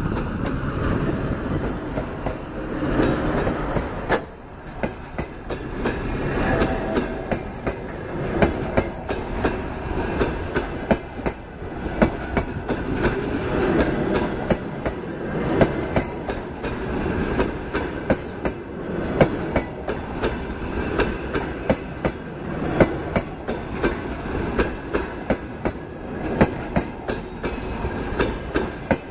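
A passenger train rolls past at speed behind a TEP70 diesel locomotive, whose rumble fills the first few seconds. After that come the coaches' wheels clicking over the rail joints, a sharp cluster every second or two over a steady rolling rumble.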